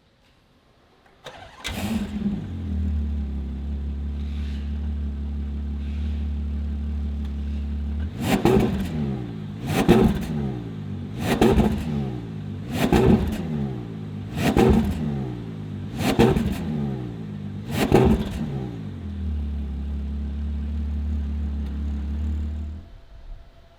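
Ferrari Purosangue's 6.5-litre V12, breathing through an aftermarket exhaust, starts up about a second in and settles into a steady idle. It is then blipped seven times in quick succession, about one and a half seconds apart, each a sharp rise and fall in pitch. It drops back to idle and is switched off near the end.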